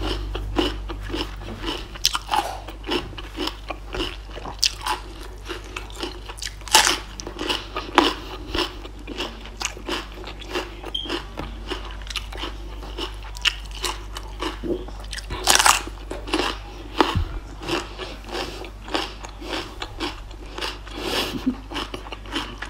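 Close-up crunching and chewing of raw cucumber: a steady, irregular run of crisp bites and chews, with one louder crunch about two-thirds through.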